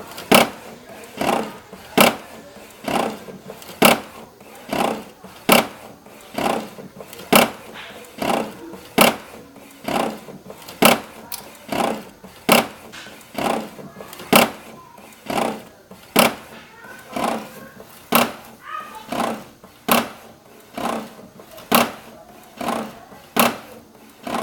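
HP OfficeJet 7612 inkjet printer printing an A3 sheet with a loud, regular knocking: a sharp knock about every second, alternating stronger and weaker, with softer mechanical noise in between. It is a strange noise heard only on A3 printing, which the owner calls a locking noise, though the print comes out normally.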